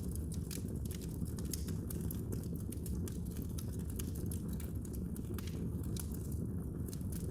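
Wood fire in a fireplace crackling: frequent sharp, irregular pops and snaps over a steady low rumble of the flames.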